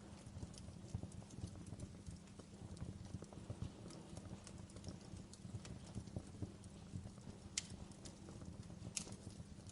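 Wood fire crackling in a fireplace: a steady low rumble of burning with frequent small pops and snaps, and two sharper pops near the end.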